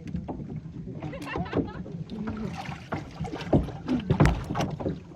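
Kayaks on the water: paddle splashes and scattered knocks of paddles and hulls, with two louder knocks about three and a half and four seconds in.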